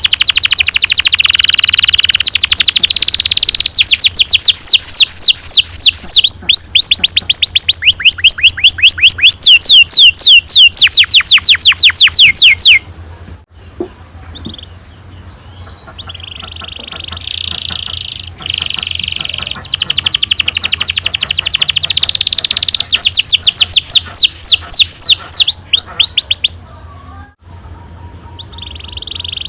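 Domestic canary singing a long rolling song: fast trills of repeated downward-sweeping notes and buzzing rolls, pausing twice, about 13 seconds in and again about 27 seconds in.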